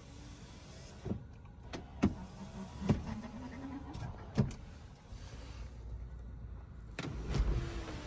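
Power window motor in a 2000 Mercedes-Benz E430 whirring in short runs, its pitch rising and falling, with several sharp clicks and knocks between the runs.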